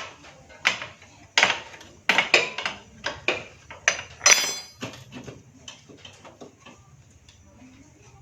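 Metal hand tools and engine parts clinking and clanking as a Honda Grand's magneto cover is taken apart. There is a string of sharp knocks over the first five seconds, one of them a ringing metallic clang, and then only light ticks.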